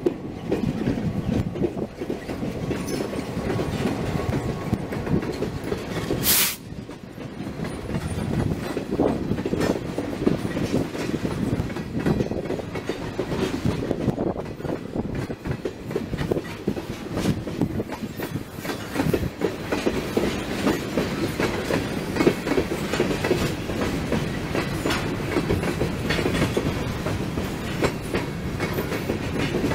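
A BNSF GP28-2 diesel locomotive passes close by, then its train of tank cars and covered hoppers rolls past with a steady rumble. The wheels click over the rail joints throughout. A single brief, sharp noise comes about six seconds in.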